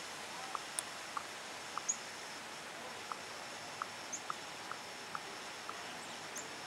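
Meltwater dripping from wet, snow-laden branches: irregular single drips over a steady outdoor hiss, with three faint high chirps.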